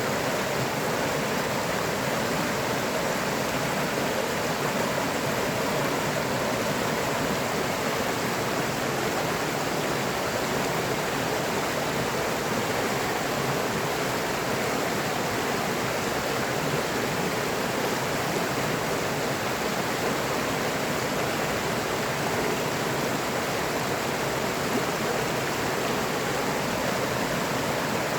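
River water rushing and flowing over rocks, a steady, even rush with no pauses or changes.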